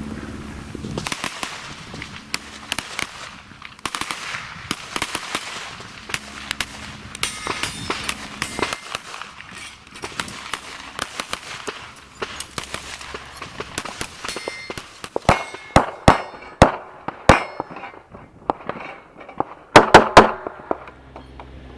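Handgun shots fired in quick strings, quieter ones through most of the stretch and the loudest in a cluster of rapid shots about three quarters in, with a few metallic clangs among them.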